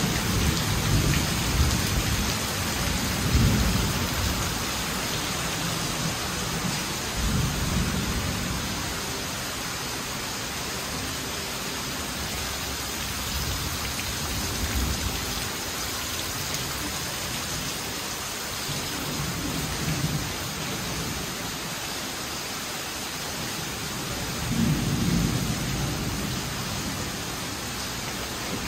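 Heavy rain pouring steadily onto a waterlogged paved yard and puddles, a continuous hiss. Several low rumbles swell and fade, the strongest near the start and close to the end.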